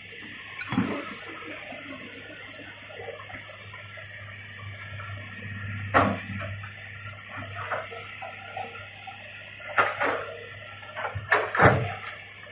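Excavator working: a steady low engine drone under a hissing noise, with sharp knocks or cracks about every few seconds.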